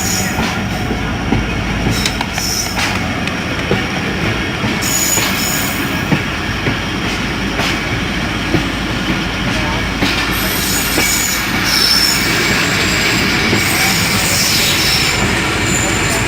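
Passenger train running on the rails: a steady rumble of wheels on track, with scattered clicks and brief high wheel squeals now and then, getting a little louder about two-thirds of the way through.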